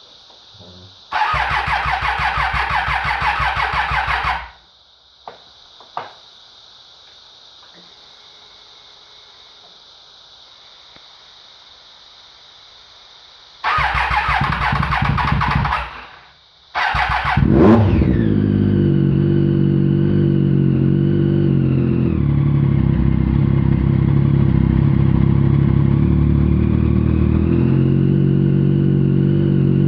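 2013 Triumph Daytona 675R's inline three-cylinder engine being cranked by its starter twice without firing, then catching on the third try, revving briefly and settling into a steady idle that drops in pitch a few seconds later and rises again near the end. It is the engine's first start after a top-end rebuild with a new cylinder head.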